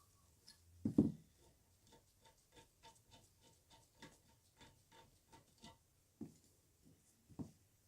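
Small metal drill press parts being worked by hand: a knock about a second in, then an even run of light ringing clicks, about three to four a second, for several seconds, and two more knocks near the end.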